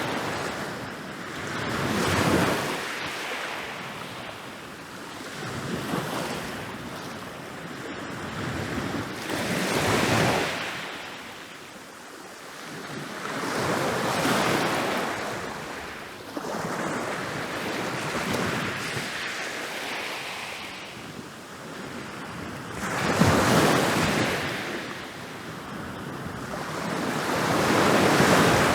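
Ocean waves rolling in and breaking on a beach, the surf swelling and falling back about every four seconds, with the loudest breaks near the end.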